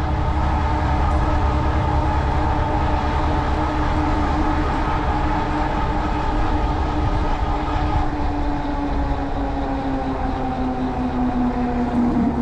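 Cyrusher Kommoda fat-tire e-bike rolling at speed: a steady whine from its rear hub motor and tyres with several pitches at once, sinking slowly in pitch in the last few seconds as the bike slows. Low wind rumble on the microphone runs underneath.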